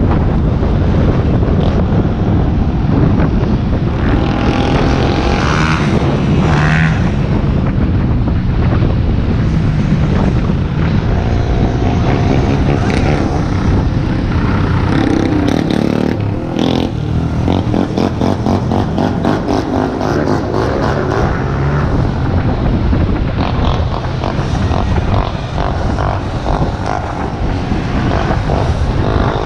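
Wind rushing over the microphone and street traffic noise while riding an electric dirt bike, with a deep steady rumble and a few whines that rise and fall.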